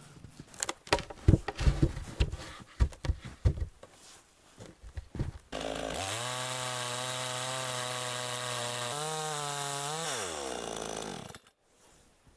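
A run of sharp knocks and clatter for about five seconds, then a chainsaw engine running steadily at low revs for about five seconds; its pitch steps once and then falls away as the engine is shut off.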